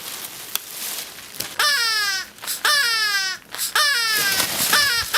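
Shrill, squawking cries for the captured bird puppet, each falling in pitch. They start a little over a second in, come about once a second, then turn quicker and shorter near the end.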